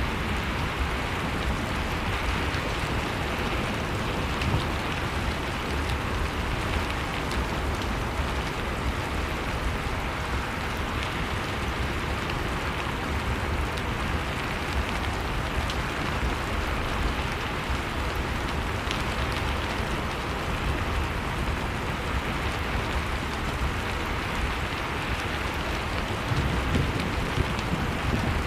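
Blizzard wind and a crackling wood fire mixed together: a steady rushing storm noise with a deep rumble underneath, and small crackles scattered throughout.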